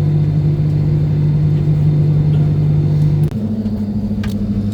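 Airbus A320 cabin drone: a steady low hum that changes abruptly a little over three seconds in, dropping slightly in loudness and shifting to a somewhat higher tone.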